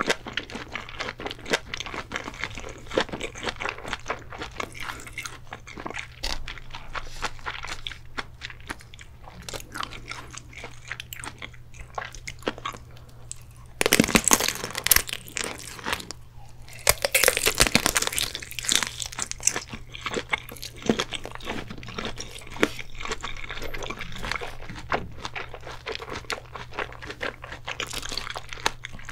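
Close-miked chewing of a large ring sausage, with loud crunching bites into it about halfway through.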